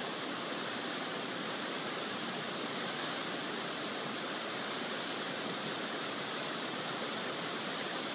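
Steady rushing of Fudō Falls, a tall waterfall, its water pouring down without a break.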